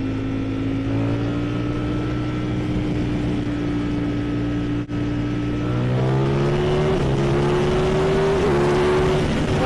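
Ducati Streetfighter V4 S's 1103cc Desmosedici Stradale V4 engine pulling under way, heard through a microphone inside the rider's helmet. The engine note holds nearly steady with a brief break about five seconds in, then climbs in pitch from about six seconds in as the bike accelerates hard, dropping sharply right at the end.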